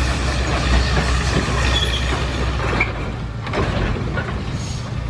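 Heavy diesel machinery running with a dense metallic clanking rattle. A steady low engine hum drops away about three seconds in.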